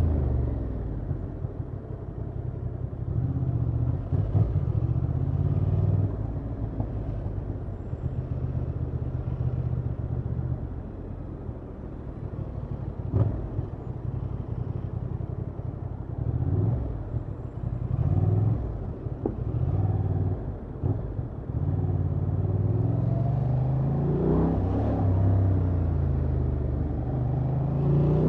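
Honda XL750 Transalp's 755 cc parallel-twin engine through its stock exhaust, riding in city traffic. Engine pitch rises and falls repeatedly as the bike accelerates, shifts and rolls off, and climbs steadily over the last few seconds.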